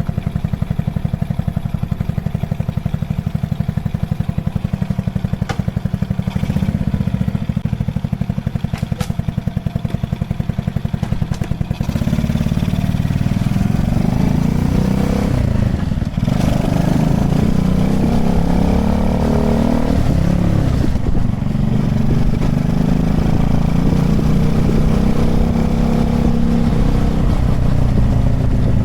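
Honda Chaly minibike's single-cylinder four-stroke engine, puttering at low revs for the first twelve seconds. It then pulls away louder, rising in pitch through the gears, with short dips at the shifts.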